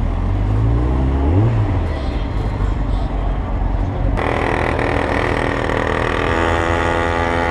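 Sport motorcycle engines running, one revving up briefly about a second in; about four seconds in the sound changes abruptly to a brighter, steady engine note.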